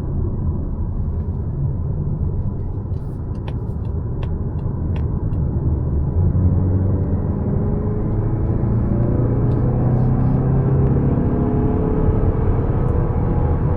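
Mazda CX-5's naturally aspirated 2.5-litre Skyactiv-G four-cylinder engine and road rumble while driving, with the engine note climbing from about six seconds in as the car accelerates. A few faint light clicks come a few seconds in.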